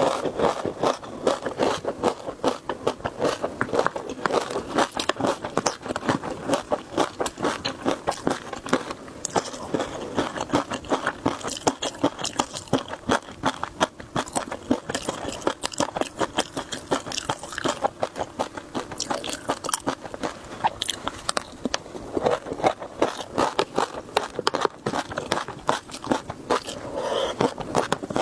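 A person chewing and biting crunchy food close to the microphone: dense, irregular crunching and crackling, several bites a second, of a spicy shrimp dish mixed with crunchy rice snacks and peanuts.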